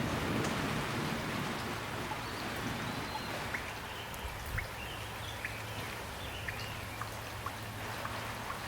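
Steady gentle rain falling, with individual drops ticking sharply close by, more of them after the first few seconds.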